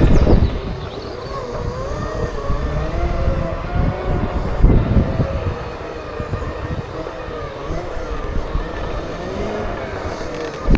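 Segway's electric motors whining, the pitch wavering up and down as the speed changes, over a steady low rumble with a louder bump about four and a half seconds in.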